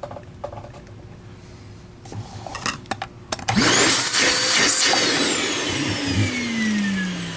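A few handling clicks, then about three and a half seconds in the TriStar MG2 canister vacuum's motor is switched on and spins up with a rising whine. About a second and a half later it is switched off and winds down, its whine falling in pitch.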